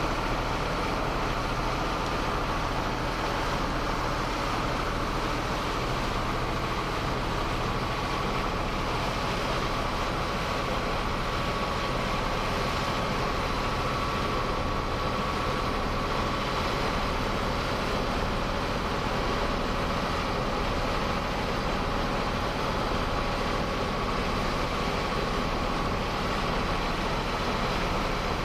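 Boat engine running steadily, a continuous even drone with a faint steady whine on top.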